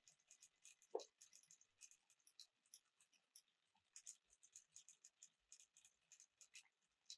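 Faint, rapid, irregular light ticking and clicking of small hard objects, with one soft knock about a second in.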